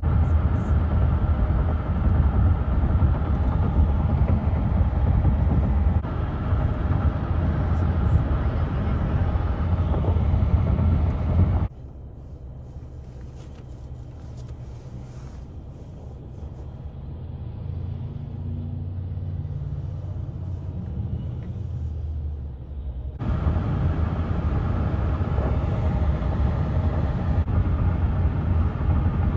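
Highway traffic noise of trucks and vehicles on the road, steady and mostly low-pitched, in three clips joined by sudden cuts. It is loud for about twelve seconds, drops to a quieter stretch with an engine note rising in pitch partway through, and is loud again for the last six seconds.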